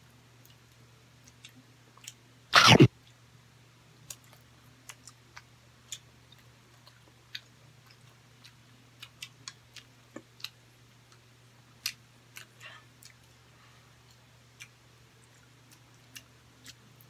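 Someone chewing grilled street-food skewers, with scattered small wet mouth clicks over a steady low hum. A single loud, short thump comes about two and a half seconds in.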